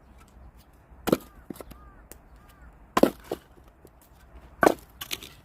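An axe striking firewood being split, three sharp chops about two seconds apart, the second and third each followed by a lighter knock.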